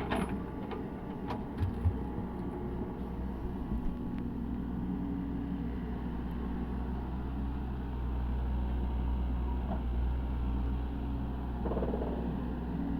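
Diesel engine of a Cat 307E2 excavator running steadily, with a few sharp knocks in the first four seconds and the engine getting a little louder from about eight seconds in.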